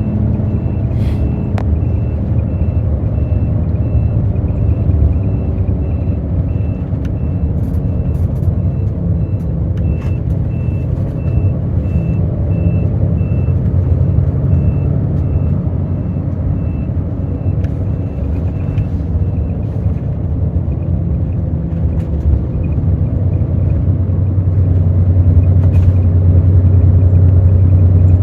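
Hino J08E-VD six-cylinder diesel of an intercity bus running under way, heard on board, with a regular high electronic beep repeating for the first two-thirds. Near the end the engine grows louder as it pulls harder.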